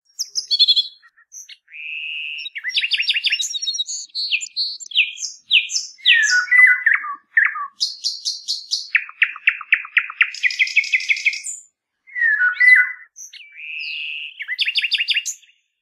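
A songbird singing a varied song of whistled notes, fast trills and sharp chirps in short phrases, some phrases recurring, with no background noise around it.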